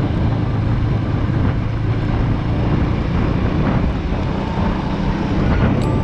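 Motorcycle running at road speed, a steady low engine drone with wind rushing over the microphone. Music comes in near the end.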